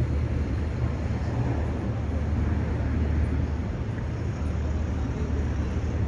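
Steady low outdoor rumble with a light hiss and no distinct events.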